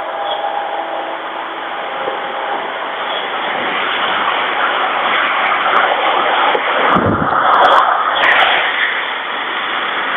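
A road vehicle passing close by: its noise swells steadily to a peak about seven to eight seconds in, then eases off.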